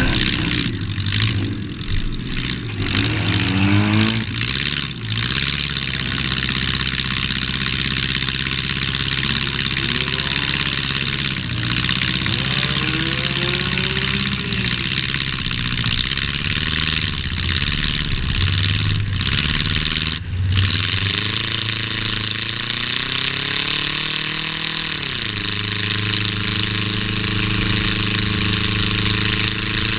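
Race car engine heard from inside its stripped-out cabin, revving up and down in repeated swells. Near the end it climbs in pitch for several seconds, drops suddenly, then runs at a steady pitch as the car drives onto the track.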